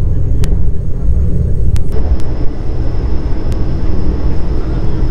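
Steady low rumble of the Vande Bharat Express running at speed, heard from inside the coach, with a few brief sharp clicks. A faint high steady whine comes in about two seconds in.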